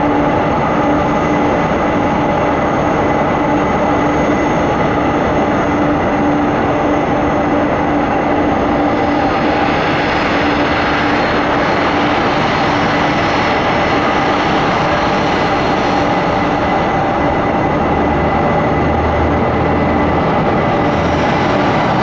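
A jet airliner's engines running loud and steady, a thick rush of noise with several steady whining tones over it.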